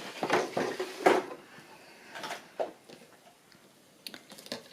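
Rustling and light clattering as fabric and small craft tools are handled on a table, ending in a few sharp clicks.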